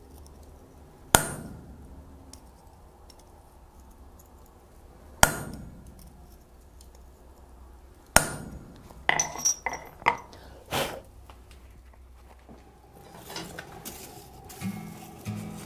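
Hand hammer striking a steel forging tool held on a steel bell blank: three single sharp, ringing blows a few seconds apart, followed by a quick run of lighter metal clinks.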